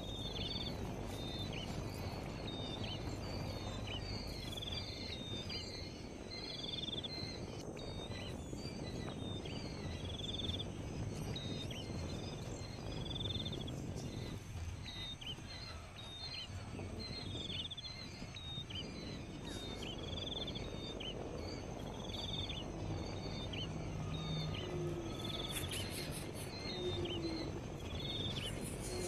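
A bird calling over and over in a steady series of short, high notes, about one a second, over steady background noise.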